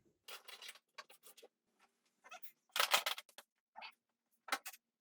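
Irregular clicks, clinks and rustles of tools and parts being picked up and moved about while a work area is cleared, in short separate bursts with the loudest clatter about three seconds in.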